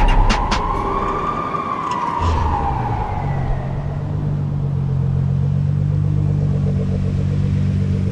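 Performance car engine revving with a few sharp exhaust pops about half a second in, its pitch rising and then falling away over about two seconds, then settling into a steady low running note.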